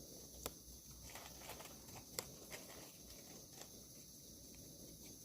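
Near silence with a few faint, sharp clicks scattered through it, the clearest about two seconds in.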